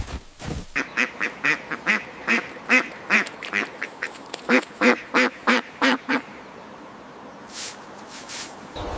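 Duck quacking: a rapid run of short quacks, about three a second, that stops about six seconds in, followed by a few soft hissy sounds.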